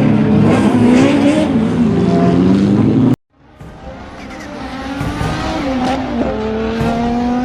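Peugeot 306 Maxi Kit Car rally engine at full pace, revs rising and falling through corners. After a sudden cut about three seconds in, it builds up again from quiet and revs up steadily, with a quick gear change about six seconds in.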